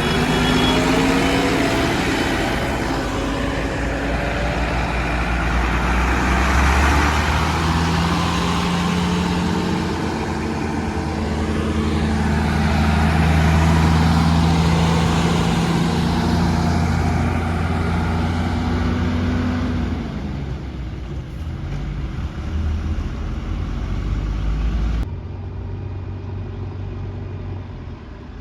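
Heavy diesel engine of earthmoving and truck work running under changing load, its pitch rising and falling over the first twenty seconds. It then goes quieter, and the sound changes abruptly near the end.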